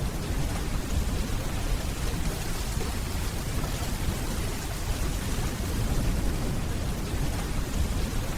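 Steady rainfall with a continuous low rumble of distant thunder underneath.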